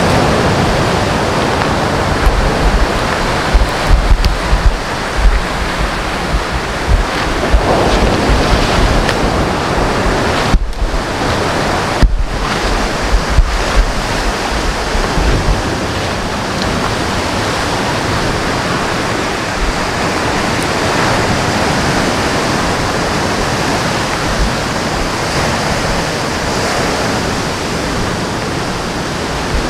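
Steady rushing of wind and water, with wind buffeting the microphone in gusts during the first half. The sound cuts out for an instant twice, about ten and twelve seconds in.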